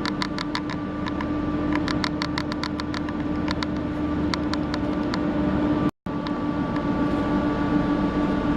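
Steady machine hum with a run of quick, light metallic clicks through the first half, typical of metal parts being handled in a workshop; the sound cuts out completely for a moment about six seconds in.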